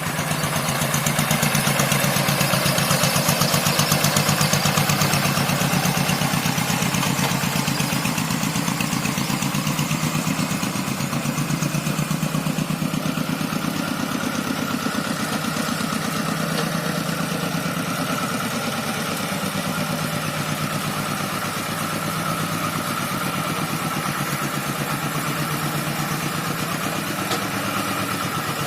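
Rice-paddy tractor engine running steadily under load while levelling a wet paddy field, its pitch rising slightly over the first few seconds and then easing back. A steady higher whine joins about halfway through.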